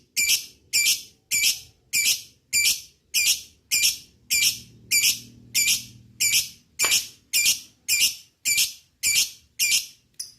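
Lovebird giving harsh, high-pitched shrieking calls over and over in a steady rhythm, about two a second.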